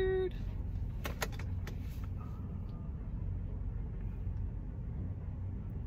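Semi-truck's diesel engine running with a steady low drone, heard from inside the cab. A few sharp clicks sound about a second in.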